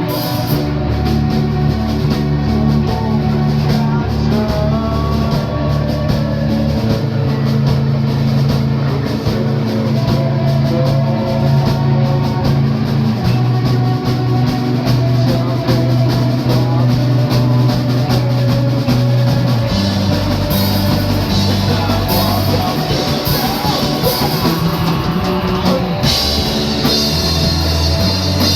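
A rock band playing live: electric guitar, bass and drum kit. Cymbals come in more strongly about two-thirds of the way through, and again near the end.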